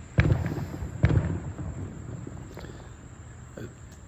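Fireworks exploding overhead: two loud booms about a second apart, each rumbling away, followed by a few fainter pops.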